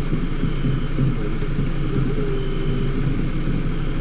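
Car engine idling steadily while the car stands still.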